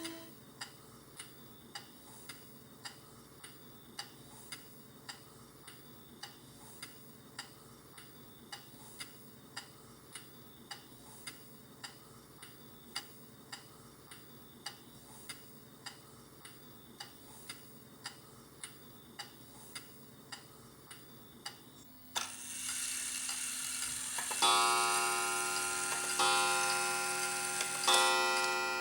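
Steady, faint ticking, a little faster than once a second. About 22 seconds in, a loud hiss cuts in suddenly, and a ringing chord of several tones strikes twice over it near the end.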